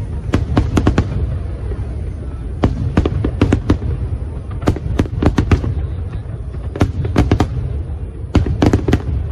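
Fireworks going off: rapid sharp bangs and crackles, often several in quick succession, over a continuous low rumble from the display.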